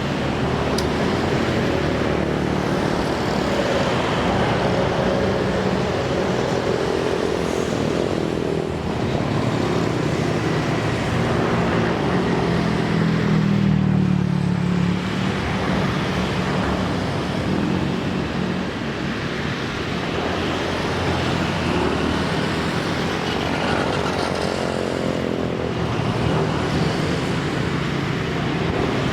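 Diesel locomotive engine running steadily with a deep hum, swelling about halfway through and shifting in pitch near the end.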